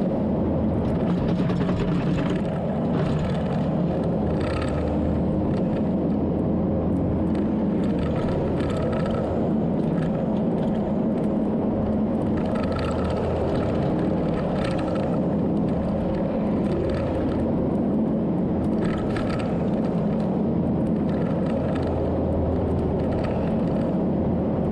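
Diesel engine of an earthmoving machine running steadily under load, with short higher-pitched bursts every second or two.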